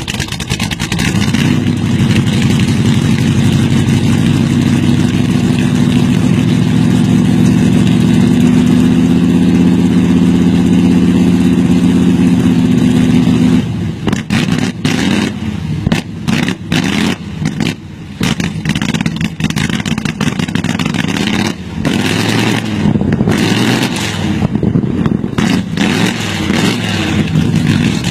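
An engine running steadily for about the first half, then revved up and down in uneven surges with short dips.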